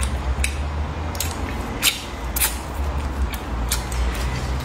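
Close-miked chewing of fried pork: irregular wet mouth smacks and squelches, roughly one or two a second, over a steady low hum.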